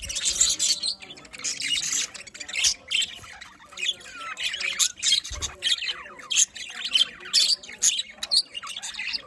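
A flock of budgerigars chirping and squawking, with many short, high calls overlapping in busy chatter.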